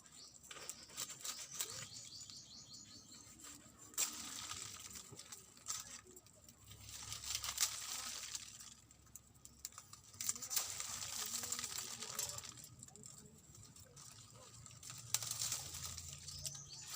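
Old coconut-leaf thatch rustling and crackling as it is pulled and torn off a hut wall, in several bursts of a few seconds each with brief pauses between.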